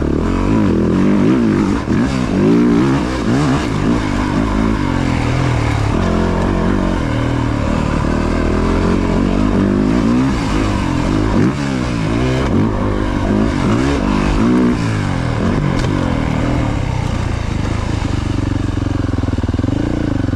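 Yamaha YZ450F dirt bike's four-stroke single-cylinder engine being ridden hard, revving up and down over and over as it accelerates and backs off through the turns.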